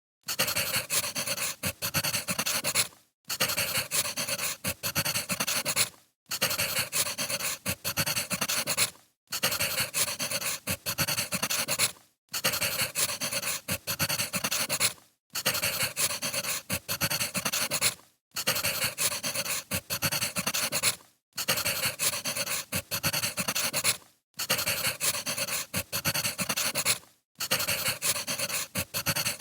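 Crackling wood fire. The same few seconds repeat, with a brief dropout about every three seconds.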